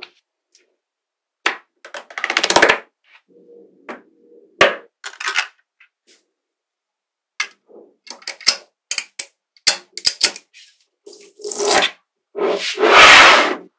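Small magnetic balls clicking and snapping together: sharp single clicks and quick runs of clicks, with a longer clattering rattle of many balls about two seconds in and again near the end.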